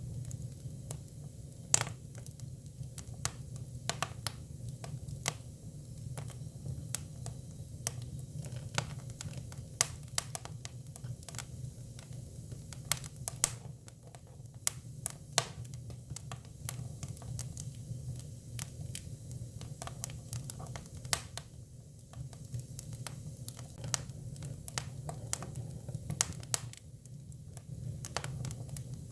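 Hinoki (Japanese cypress) firewood burning: a steady low rumble of the fire with irregular sharp crackles and pops, a few of them louder snaps.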